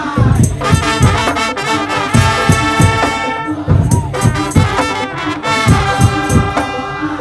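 Madurese tong-tong street ensemble playing: a loud, brass-like wind melody over regular drum and percussion beats.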